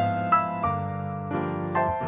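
Instrumental background music, a piano or electric piano playing a slow, gentle melody of single struck notes over sustained chords.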